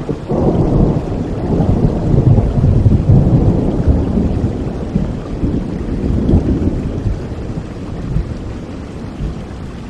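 A long roll of thunder over steady rain. It breaks in just after the start, rumbles loudest through the middle and dies away near the end.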